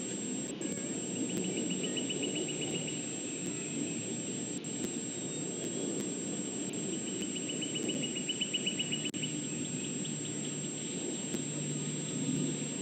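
Insects trilling in rapid, evenly pulsed runs of about nine pulses a second, twice for a couple of seconds each, over a steady low rumble of outdoor background noise and a constant thin high tone.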